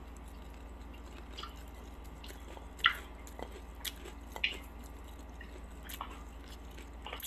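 A person chewing crispy fried chicken close to the microphone: scattered crunches and clicks, the loudest about three seconds in.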